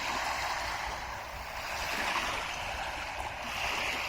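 Small waves lapping at a beach shoreline, a soft wash that swells and fades every couple of seconds.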